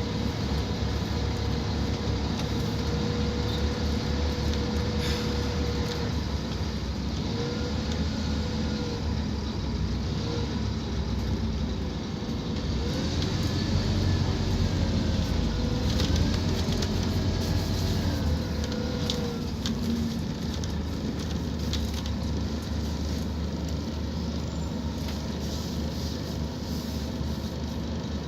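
Scania K230UB Omnilink single-decker bus's diesel engine and automatic gearbox under hard acceleration. Its whine rises and falls several times through the gear changes over a steady low rumble, louder about halfway through.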